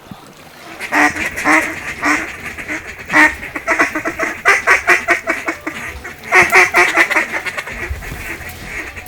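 Duck quacking: runs of short, raspy quacks, loudest around a second in and again around six and a half seconds in.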